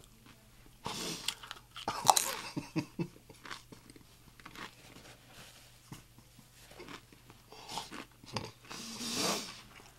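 Close-miked crunching of a tortilla chip being bitten and chewed. The crisp cracks come thickest in the first few seconds, then thin out into softer chewing clicks, with another louder crunching stretch near the end.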